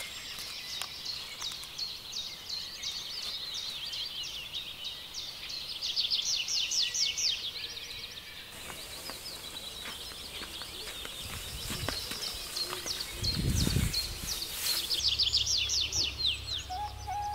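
Birds singing outdoors in rapid runs of high, quick chirps over a faint background hiss, loudest about six seconds in and again near the end. A brief low thump comes about two-thirds of the way through.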